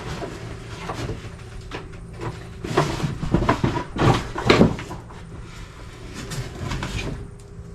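A heavy lawnmower being wrestled out of its cardboard shipping box: irregular knocks, bumps and scraping of the mower against the box, loudest in a cluster around the middle.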